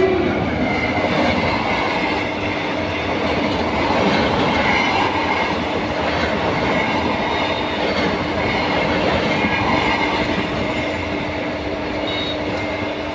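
Express passenger train passing at speed close by: coaches rattling and wheels clacking over rail joints, with a steady hum beneath.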